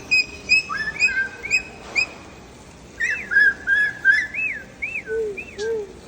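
Pet cockatoo whistling: a quick string of short, clear, upswept chirps, then after a pause of about a second a run of looping whistled notes that rise and fall.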